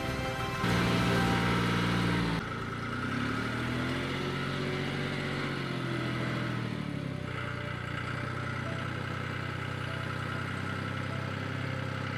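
Tractor engine running under the front-end loader, louder for a moment about a second in, then its pitch rising and falling again over a few seconds before it settles to a steady run.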